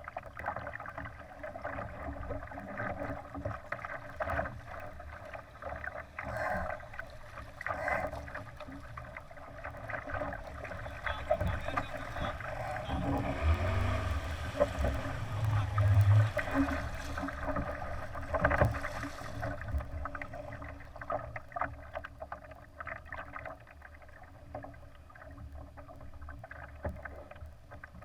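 Water rushing and splashing along the hull of a Laser sailing dinghy under way. It is a continuous, uneven wash that grows louder in the middle, with low rumbling gusts there.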